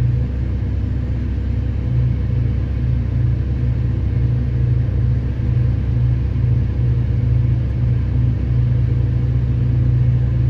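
Diesel engine of a Hitachi EX2500 mining excavator running under steady load, a constant low drone with a faint even pulsing.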